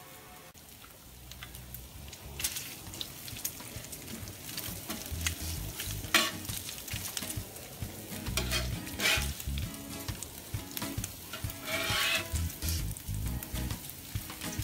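Bacon frying on a porcelain-enameled cast iron griddle and chicken sizzling on the grate of a propane gas grill, with a slotted metal spatula scraping and clacking against the cooking surface several times.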